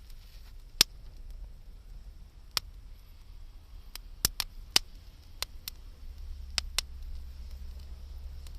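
Wood campfire crackling: about ten sharp, irregular pops and snaps, several close together around the middle, over a faint steady low rumble.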